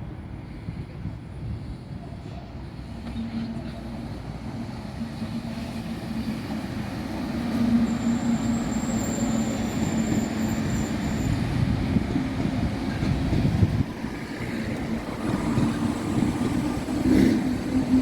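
A train running by, its noise building over the first half and then staying loud, with a steady low hum and a brief thin high whine about eight seconds in.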